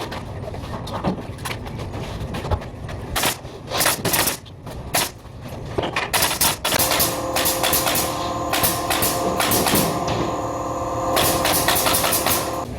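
Construction tool noise: a run of sharp knocks and bangs, then, about halfway in, a steady machine whine with several held tones for about five seconds.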